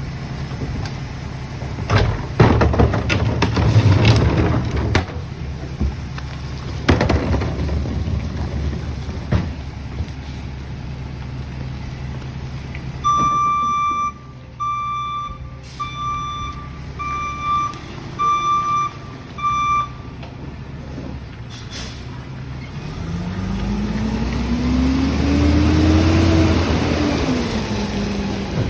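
Rear-loader garbage truck: sharp air-brake hisses and clatter early on, then the backup alarm beeping six times. Near the end the diesel engine revs up and falls back.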